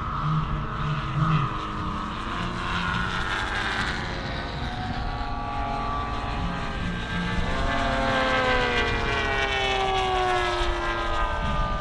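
Propeller engine of a large-scale radio-controlled WW2 fighter model flying over, its note steady at first and then falling in pitch as it passes, from about halfway through.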